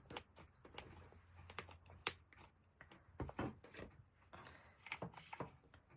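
Faint, irregular small clicks and taps of hands handling a needle, thread and bead at a work table, several a second and unevenly spaced.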